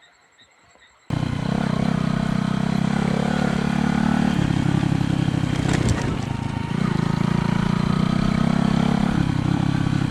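Motorcycle engine running under way with rushing wind noise, cutting in suddenly about a second in. Its steady note breaks up for a couple of seconds in the middle, then settles again.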